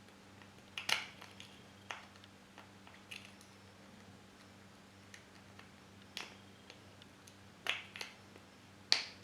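An African grey parrot playing with its toys: irregular sharp clicks and taps, about seven clear ones, a few at a time, the loudest near the end, over a faint steady hum.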